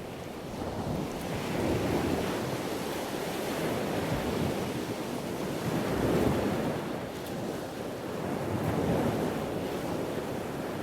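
Lake Huron waves washing onto the beach, swelling and easing every few seconds, with wind buffeting the microphone.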